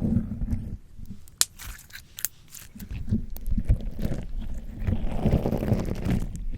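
Slime squished and pressed right on a microphone: sticky squelching with sharp little pops and crackles. It goes quieter about a second in, with a few sharp pops, then picks up into denser squishing.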